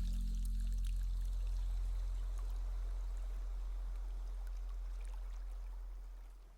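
A low, steady hum that slowly fades away near the end, with faint scattered ticks above it.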